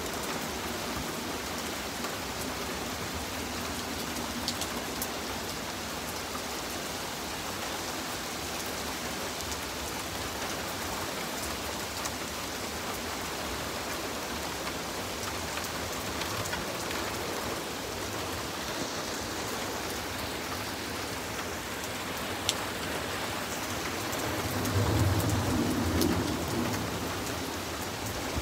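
Steady rain falling on pavement and grass, with a few sharp ticks of drops close by. Near the end a low rumble of thunder swells and then fades.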